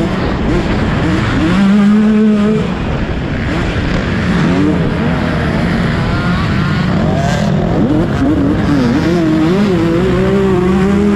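Motocross bike engine revving hard up and down through the gears, its pitch climbing, holding and dropping every second or two over a steady rush of noise.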